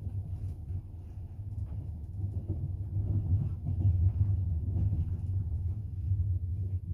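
Double-decker passenger train running on the rails, heard from inside the carriage: a steady low rumble with faint light knocks.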